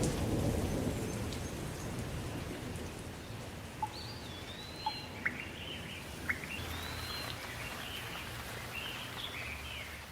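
Thunder rumbling and dying away over a steady hiss of rain. From about four seconds in, a small bird sings short whistled phrases.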